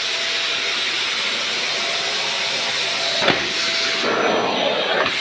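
Vacuum cleaner running with a steady hiss of rushing air and a faint whine. There is a brief knock about three seconds in, and the tone shifts a little after it.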